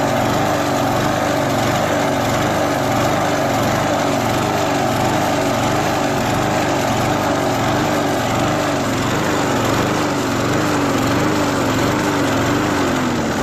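Small push-lawnmower engine running on WD-40 sprayed into the intake instead of petrol, its speed surging up and down a little under twice a second: running, but not well. Near the end it begins to slow.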